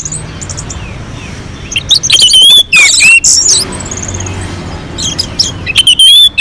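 Orange-headed thrush singing: loud bursts of rapid, varied whistled phrases, about two seconds in and again near the end, with a quieter pause between.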